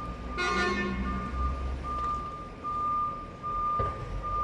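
A heavy vehicle's reversing alarm sounds a steady, repeating high beep over a diesel engine's low rumble. A short horn toot comes about half a second in.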